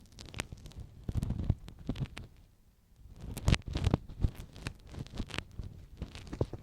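Ear pick scratching and scraping close against a microphone in irregular short strokes. There is a brief near-quiet pause just before the middle, then a cluster of louder scrapes.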